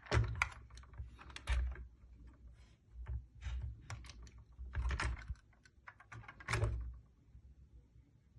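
Irregular clicks and light knocks in uneven clusters, with dull low thumps under them, fading near the end.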